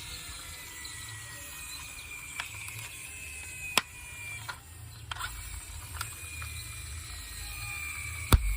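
Toy cars being handled: a scattered run of sharp clicks and knocks, the loudest near the end, over a faint high whir and a low rumble.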